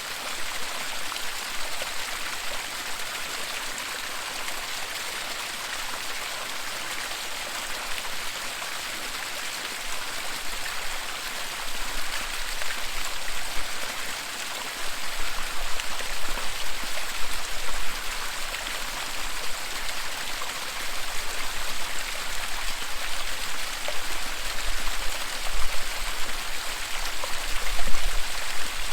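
Waterfall: water rushing in a steady, dense hiss that swells a little now and then. From about halfway a deep low rumble comes and goes beneath it.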